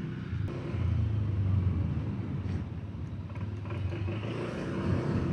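Small motorcycle engine running steadily as the bike rides along, a low even hum.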